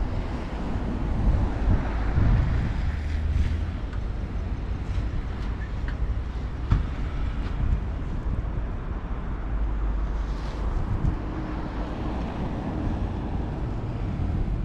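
Strong wind buffeting the microphone in a snowstorm, a steady low rumble with a faint hiss above it.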